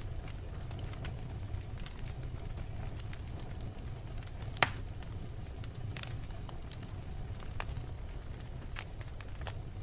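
Wood fire burning in a fireplace: a steady low rumble with logs crackling in scattered sharp snaps, and one loud pop about halfway through.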